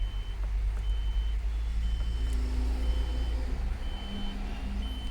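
Electronic warning beeper in an Eicher BS6 truck cab, sounding a short high beep about once a second, over a steady low hum.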